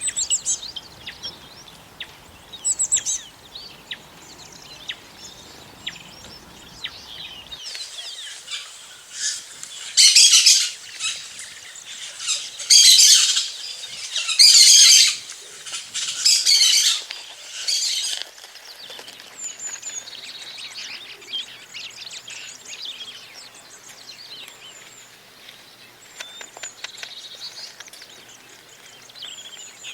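Birds chirping and calling, with five or six loud, harsh calls between about ten and eighteen seconds in, then softer chirping again.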